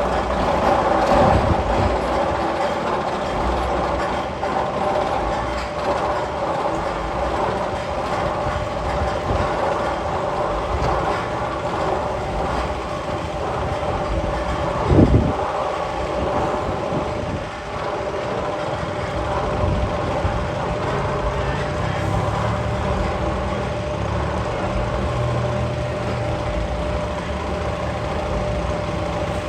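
Magnum XL 200 tunnel sound effect: a steady mechanical rumble with a constant tone, one sharp bang about halfway, and a low hum coming in later.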